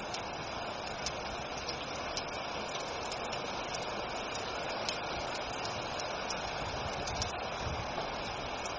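Steady rain, an even hiss with scattered sharp ticks of individual drops.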